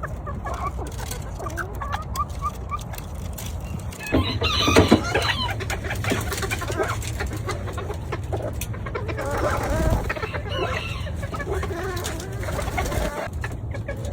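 Chickens clucking, with short repeated calls at first, then a loud rooster crow about four seconds in and another long call later on.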